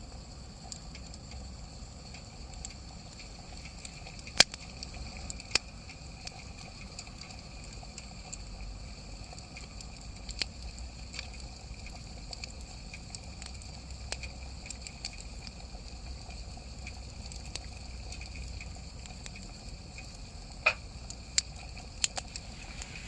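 Wood campfire burning with a steady hiss and scattered sharp crackles and pops, the loudest pop a little over four seconds in and a quick run of three near the end.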